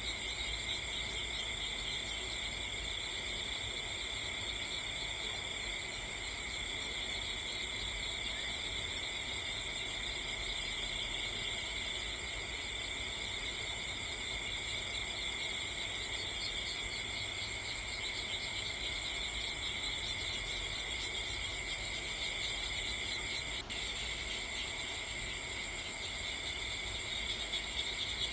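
Steady chorus of crickets, several high-pitched trills held without a break.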